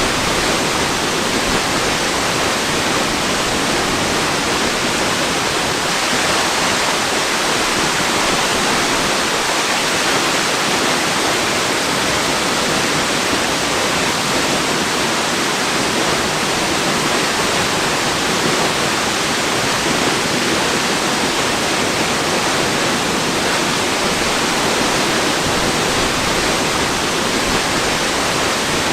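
Waterfall: a steady, unbroken rush of falling water, hiss-like and weighted toward the higher range with little low rumble.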